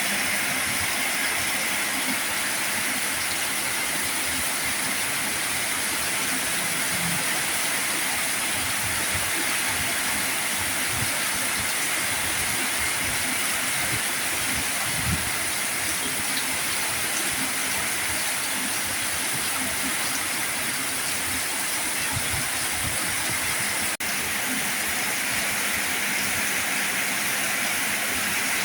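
Heavy rain falling in a steady, even hiss, with faint dull knocks of drops landing underneath.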